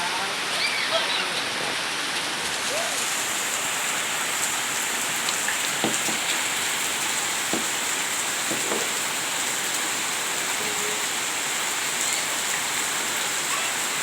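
Steady heavy rain falling and pattering on surfaces, with a few brief faint voices calling out over it.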